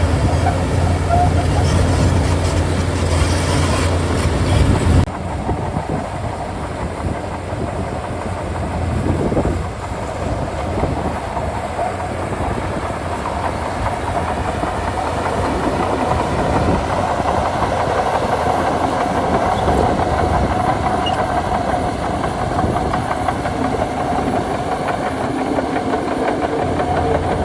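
Crawler bulldozer (Shantui DH17C2) working, its diesel engine running with the steel tracks clanking. The sound changes abruptly about five seconds in.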